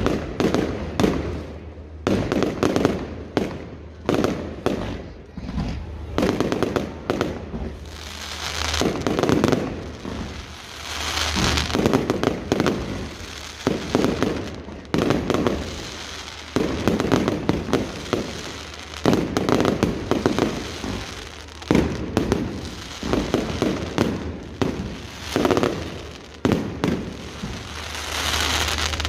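Fireworks display going off: a rapid series of bangs and crackles, with longer rushing swells in between.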